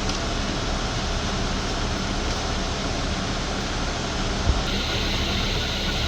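Steady low rumble of idling vehicle engines with a constant faint hum; a brighter hiss comes in about three-quarters of the way through.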